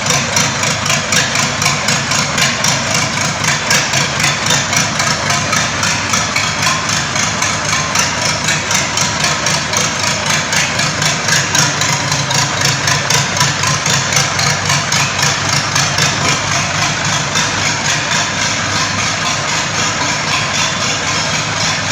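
Freshly rebuilt engine running steadily at idle during its break-in, with an even pulsing beat.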